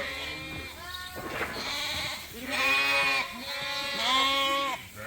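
Several sheep bleating one after another, four or five drawn-out calls at different pitches, some overlapping.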